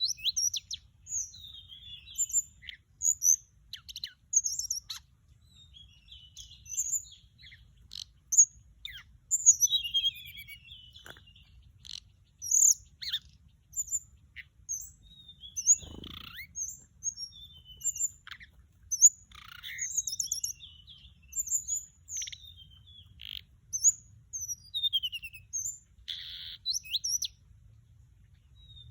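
Orange-breasted, white-bellied flycatcher singing a string of short, high whistled phrases that glide up and down, one or two a second. There is a single dull thump about halfway through.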